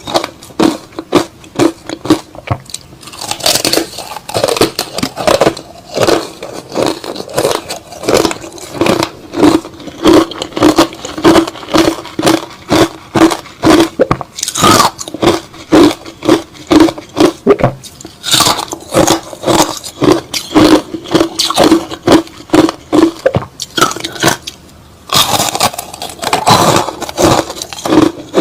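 Close-up chewing of crushed-ice slush, a steady run of crunches at about three a second, with a short pause a few seconds before the end.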